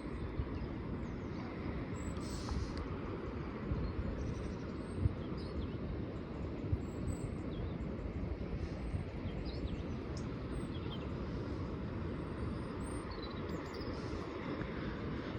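Steady low outdoor rumble, with faint high chirping calls of small birds scattered through it every second or two.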